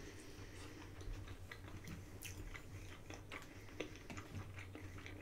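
A woman chewing a mouthful of takeout chicken close to the microphone: faint chewing with scattered small mouth clicks.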